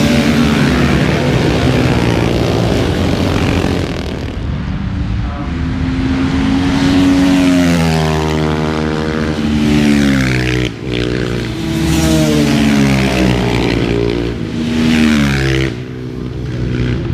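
Racing motorcycle engines revving hard as several bikes pass in turn, each engine's pitch climbing through a gear and dropping at the shift.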